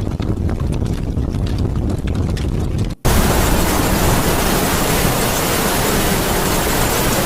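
Wind and rain ambience: a low rumbling noise that breaks off abruptly about three seconds in and is replaced by a louder, even hiss of heavy rain. A faint howl of wind rises near the end.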